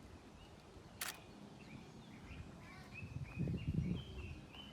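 Small birds chirping in forest, a string of short high notes, over outdoor background noise. There is a sharp click about a second in, and a louder low rustle near the end.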